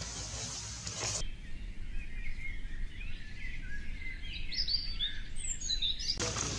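Birds chirping and twittering in many quick notes that glide up and down, with no background noise under them. The birdsong starts abruptly about a second in and stops abruptly near the end. Before and after it there is steady outdoor background noise.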